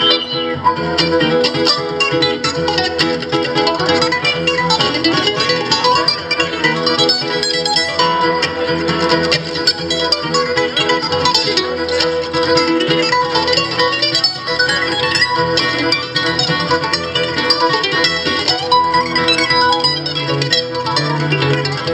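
Acoustic string band playing an instrumental break, with quick picked notes on plucked strings over steady strummed chords.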